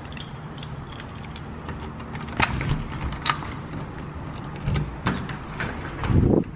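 A series of sharp clicks and knocks, with a louder low thump near the end.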